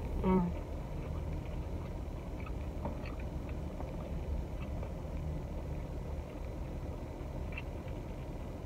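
Chewing on fried chicken wings, heard as faint scattered mouth clicks, over a steady low rumble inside a parked vehicle's cabin. A short hummed 'mm' comes right at the start.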